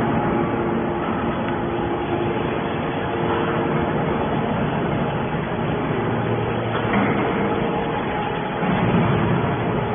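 Hydraulic scrap metal baler running: a steady mechanical noise with a constant hum of several tones, changing a little about seven seconds in and again near the end.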